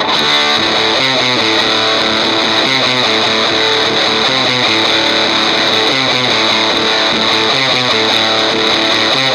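Distorted electric guitar on its own, playing a fast riff of changing notes and chords.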